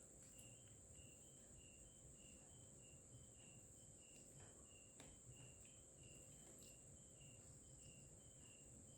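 Near silence, with faint insects chirping: a steady high hiss and a short high chirp that repeats about three times a second.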